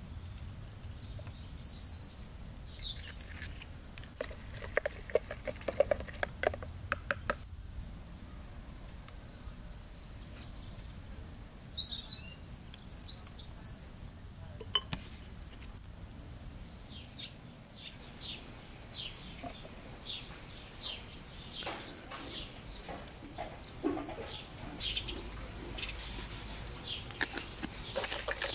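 Small birds chirping in short high calls, over scattered clattering and knocking; in the second half a faint steady high tone runs under repeated short downward chirps, about one a second.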